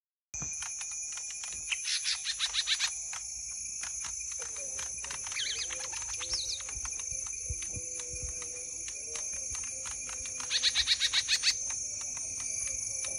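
A small songbird gives two quick runs of sharp chip notes, about eight a second, with a few softer chirps between them, over a constant high-pitched hiss. The sound cuts in abruptly just after the start.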